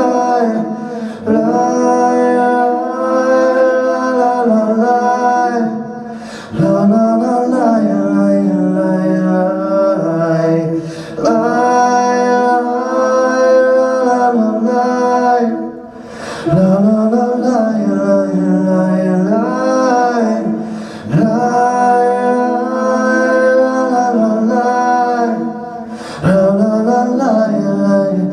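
Live wordless "la la la" singing over acoustic accompaniment: a sung refrain in repeated phrases about five seconds long, each gliding up into a held melody, with short breaths between.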